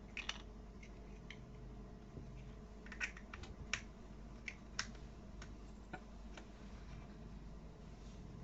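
Scattered light clicks and taps of small toy building pieces being handled and fitted together, a cluster of them about three to five seconds in.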